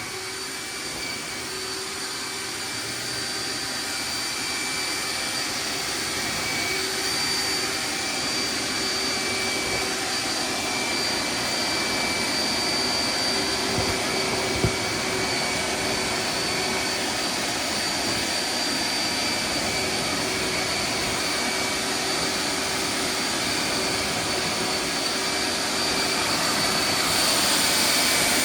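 Hoover wet/dry vac motor running steadily as it sucks water out of a saturated rug through its dry-pickup hose: a rush of air under a steady high whine. A single small knock comes about halfway through, and the sound gets a little louder near the end.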